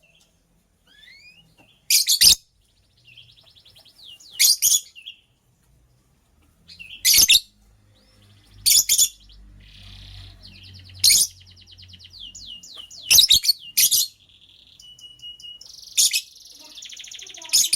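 Lovebird calling: loud, sharp, high chirps about every two seconds, with softer rapid chattering trills between them.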